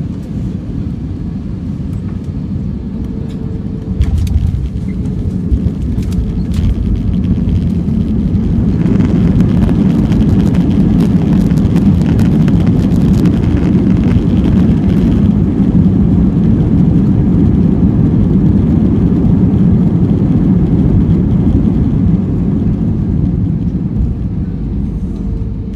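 Airliner cabin noise during landing: a sudden thump about four seconds in as the wheels touch down, rattling over the runway, then the engines' reverse thrust swelling into a loud steady rush for over ten seconds before easing off near the end.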